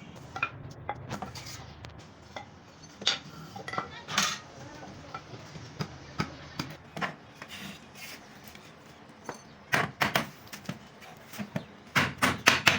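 Scattered sharp knocks and clinks of hand tools on wood during woodworking, ending in a quick run of taps.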